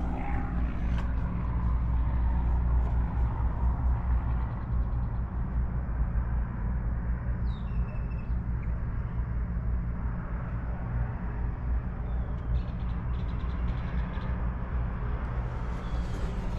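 Motorcycle engine running at a steady speed under a constant low rumble of wind noise.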